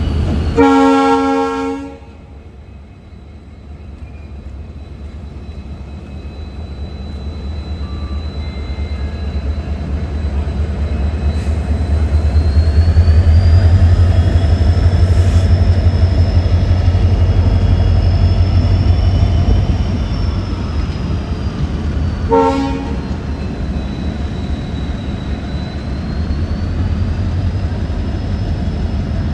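EMD WDP4D diesel locomotive sounding its horn in one blast, then its two-stroke EMD engine drone building up to its loudest about halfway through and easing off, with a thin high whine over it. A second short toot of the horn comes after about 22 seconds.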